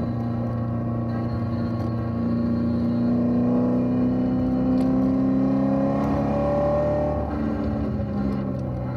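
Bolt-on-modified C7 Corvette Z06's supercharged 6.2-litre V8 pulling in third gear up a winding road, heard from inside the cabin. The engine note climbs slowly and steadily, then drops back about seven seconds in as the driver eases off.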